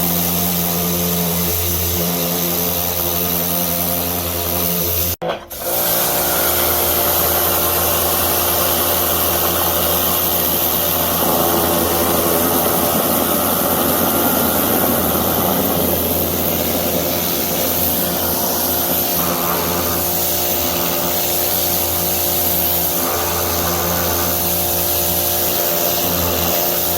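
Pressure washer running steadily, its motor humming under the hiss of the high-pressure spray; the sound cuts out for a moment about five seconds in and then resumes.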